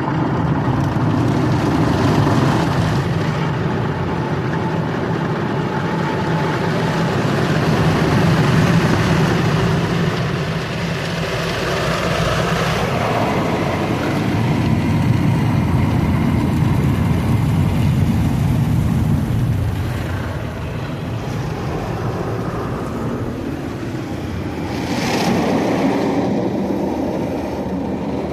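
Automatic car wash machinery running: a continuous loud rush of spray and mechanical rumble that swells and eases in loudness.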